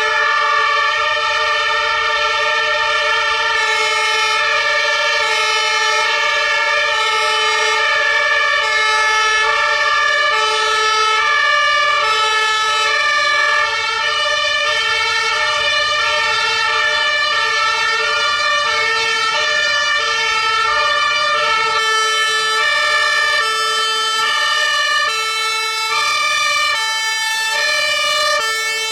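A fire engine's German two-tone siren (Martinshorn) sounding continuously. It alternates back and forth between its two pitches in a steady repeating cycle.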